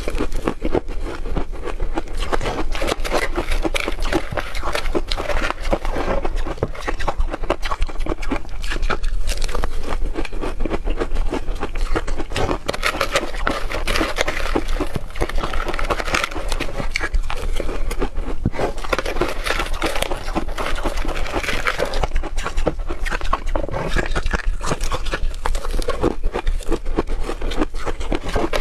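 Hard refrozen ice being crunched and chewed between the teeth: a dense, unbroken run of crackling crunches.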